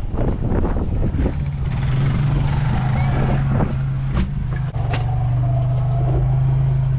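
A vehicle engine running steadily, heard from inside the cab, its low hum settling in about a second in, while storm wind buffets the vehicle and a few sharp knocks hit it.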